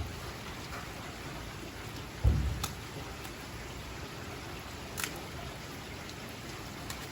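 Steady rain falling, a continuous even hiss, with a dull low thump a little over two seconds in and a couple of brief sharp clicks.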